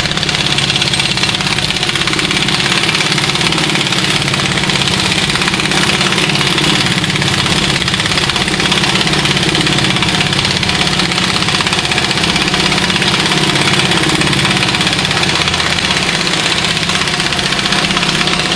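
Shop air compressor running steadily and loudly, its motor and pump making a continuous mechanical drone.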